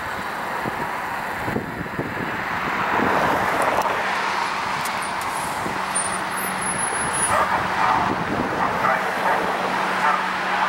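GE Silverliner IV electric multiple-unit train rolling along the track, steady wheel-on-rail noise with a faint electrical hum, growing louder about three seconds in.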